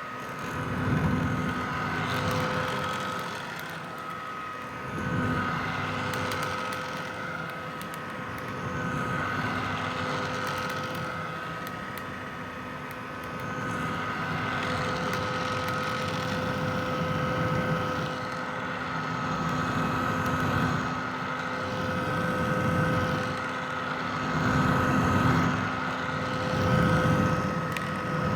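Red vintage hair dryer running continuously: a steady motor whine over rushing air, its loudness swelling and easing every few seconds.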